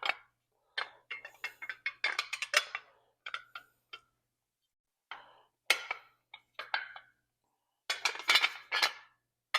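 Glass sealed-beam headlight being turned and seated in its metal headlight bucket: clusters of clinks, taps and scrapes of glass on metal, with a pause of about a second near the middle.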